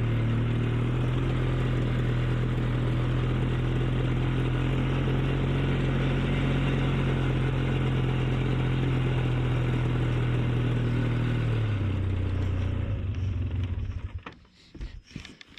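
An ATV engine runs at a steady speed, then slows about twelve seconds in and shuts off. A few knocks and clatters follow near the end.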